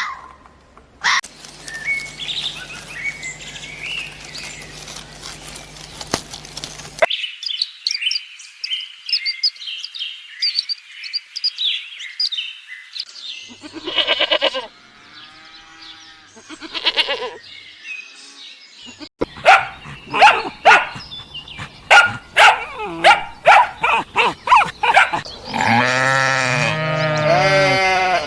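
Farm animal calls in a string of short clips that cut abruptly from one to the next, ending in a loud drawn-out bleat.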